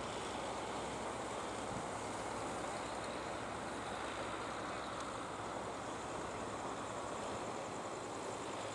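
Steady noise of sea surf mixed with the running of fishing-boat engines.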